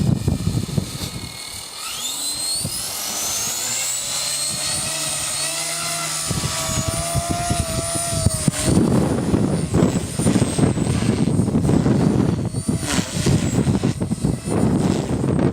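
Align T-Rex 250 electric RC helicopter spooling up: a whine rises steadily in pitch over a few seconds, then holds at a steady high pitch. From about halfway on, strong wind buffets the microphone with a low rumble over the whine.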